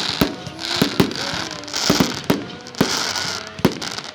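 Fireworks display: a string of sharp bangs, about seven in four seconds, mixed with hissing crackle from bursting shells.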